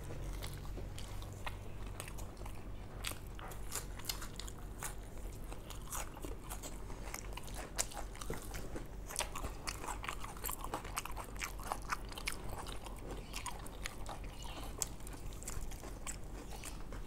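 Biting and chewing of a crumb-coated Bengali fish fry, with many small irregular crisp crunches.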